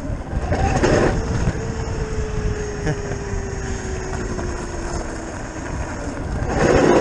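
Zero FX electric motorcycle riding on a dirt road: wind rush on the microphone and tyre noise, with the electric motor's thin whine sliding slowly down in pitch over a few seconds. Louder swells of wind noise about a second in and near the end.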